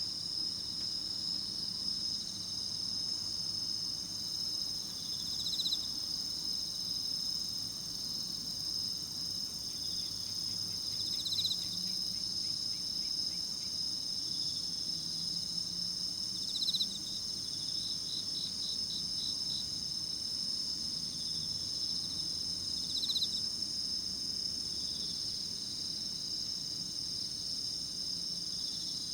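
Chorus of autumn night insects singing in continuous high-pitched trills. A louder short chirp stands out every five or six seconds, and a quick series of pulses comes about two-thirds of the way in.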